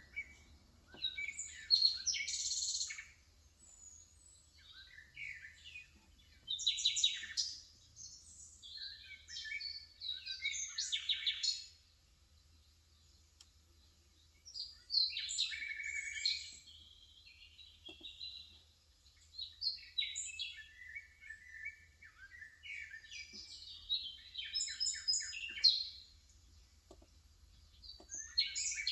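Small songbirds chirping and twittering in bursts of one to three seconds, with short pauses between, about nine bursts in all.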